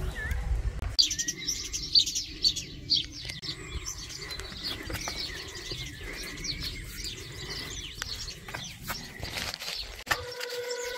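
Small birds singing: a quick, continuous run of short, high, falling chirps that starts about a second in and fades near the end, over a low rumble.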